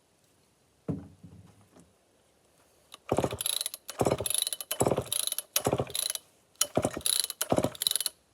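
Chainsaw recoil starter rope pulled six times, about once a second, each pull a ratcheting whir of the pulley and pawls with the rope rewinding; the engine does not fire. The recoil, freshly sprayed with WD-40, is retracting the rope fully. A single knock comes about a second in.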